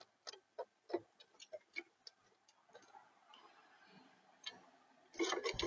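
Irregular sharp taps and clicks of a bird pecking at seed on the feeder, with a dense clatter of rapid taps near the end.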